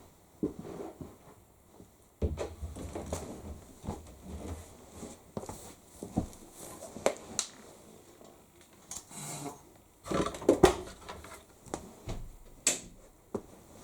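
Shirts being unloaded from a tumble dryer by hand: irregular fabric rustling and handling noises, broken by short sharp clicks and knocks, the loudest cluster about ten seconds in.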